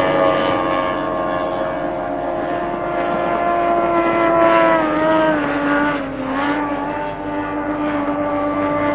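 Racing outboard motors running at high revs, a steady engine whine whose pitch drops slightly about five to six seconds in.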